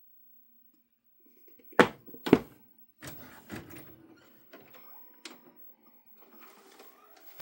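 Two sharp clicks about half a second apart, followed by softer scattered clicks, knocks and rustling, like objects being handled.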